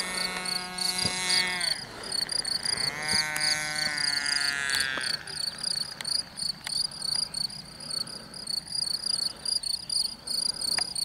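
Small nitro glow engine of a radio-controlled Cessna 177 Mini Cardinal model plane flying overhead, its pitch dropping about two seconds in, rising again, then fading out about five seconds in. Crickets chirp in a rapid, even pulsing throughout.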